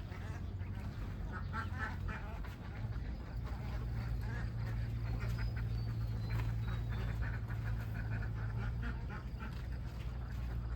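A flock of domestic ducks quacking, many calls overlapping, over a steady low hum that grows louder a few seconds in.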